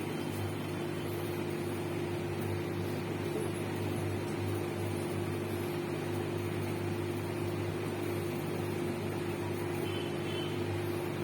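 Samsung WW70T4020CX 7 kg front-loading washing machine running, its drum motor giving a steady hum.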